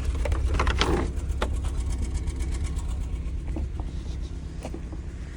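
A car engine running at idle, a steady low rumble that slowly grows quieter, with a few faint clicks.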